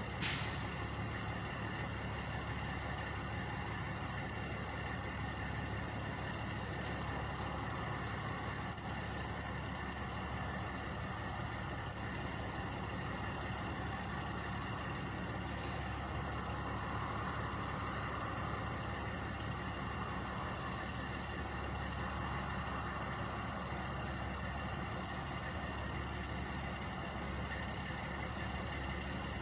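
Truck engines idling in a steady, unchanging drone, opening with a single sharp click.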